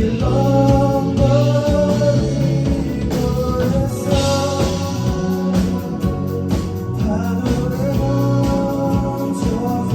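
Rock song with a sung vocal line over guitar and a steady bass, played continuously.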